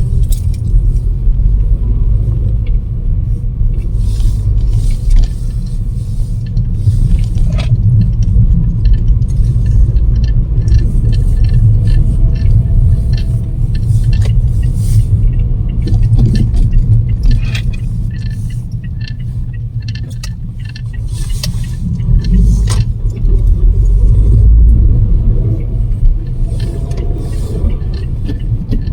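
Gale-force storm wind buffeting the microphone: a loud, low rumble that swells and eases in gusts, with scattered clicks and rattles.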